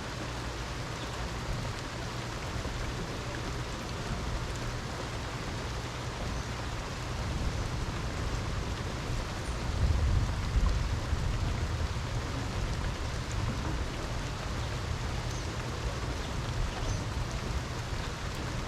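Steady heavy rain falling, an even hiss. About halfway through, a low rumble swells up briefly and then fades back.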